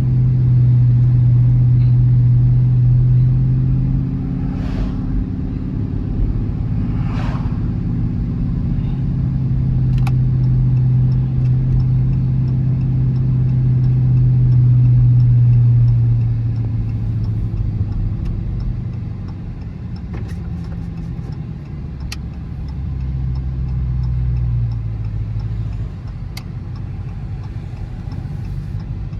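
Dodge Charger R/T's V8 engine and exhaust driving under load with a steady drone, strongest in the first few seconds and again through the middle, then easing off after about two-thirds of the way and picking up briefly near the end. Faint regular ticking runs under it in the later part.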